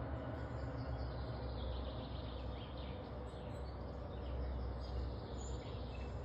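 Outdoor garden ambience: a steady low rumble and hiss with faint bird chirps now and then.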